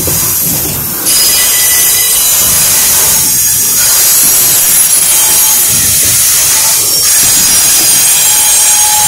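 Double-stack container well cars of a freight train rolling past close by: a steady loud clatter and hiss of steel wheels on the rails, with faint thin wheel squeals now and then.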